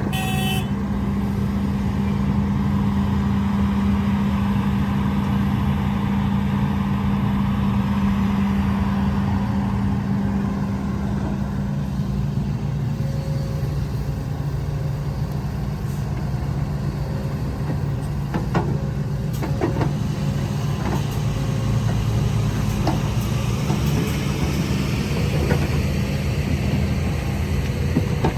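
Heavy diesel earthmoving machinery running steadily, the engine note dropping lower about twelve seconds in, with a few short knocks in the second half.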